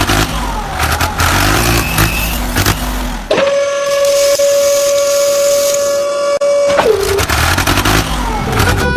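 Vehicle sounds: engine noise, then one long steady horn-like blast of about three and a half seconds that drops in pitch as it ends.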